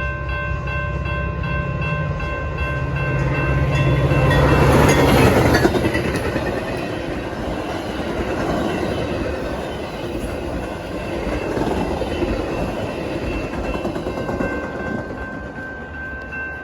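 A train passing close by: a low engine hum and steady high tones, a swell to the loudest point about five seconds in as the head end goes by, then the rolling rumble of the cars going past.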